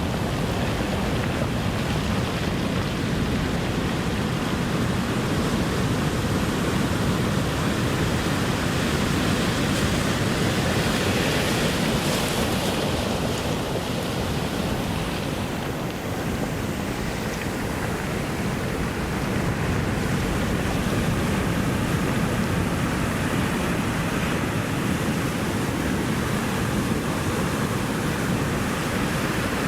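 Ocean surf washing ashore in a steady continuous rush, swelling slightly about a third of the way through.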